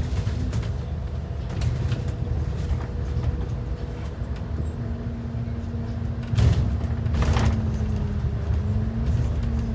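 A transit bus running, heard from inside: a steady low engine and road rumble with a steady drivetrain whine over it. Two short hisses come about six and seven seconds in.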